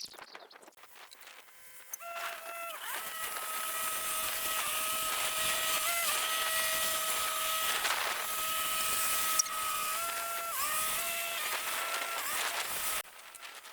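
A motor running with a steady whine, starting about two seconds in and cutting off abruptly near the end, dipping briefly in pitch a few times as if under load.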